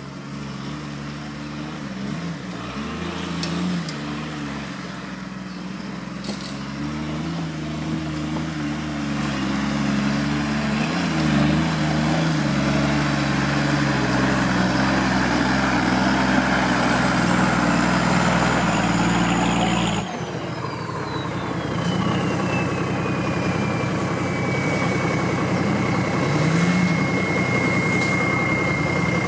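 Off-road vehicle engine running, growing louder over the first two-thirds. Then the sound changes abruptly, and a high whine falls in pitch and settles into a steady tone.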